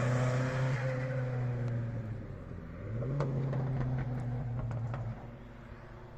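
A historic rally car's engine running hard as the car goes by and moves away, picking up again about three seconds in as it accelerates, then fading out after about five seconds. A few faint sharp clicks sound over it.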